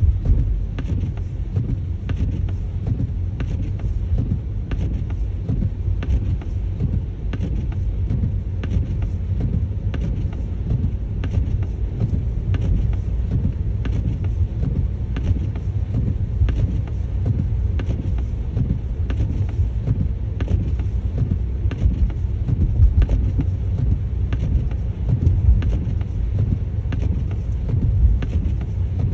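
Car interior while driving: a steady low rumble of road and engine noise, with a light tick repeating about every two-thirds of a second.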